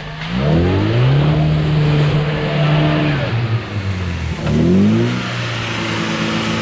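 Off-road UAZ's engine revved hard under load, twice. Each time the pitch climbs quickly and then holds high; it eases off about three seconds in, then climbs again and stays up.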